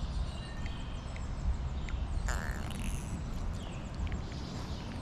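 Stream-side ambience: a steady low rush of water and wind with scattered short bird chirps, and one louder call about two and a half seconds in.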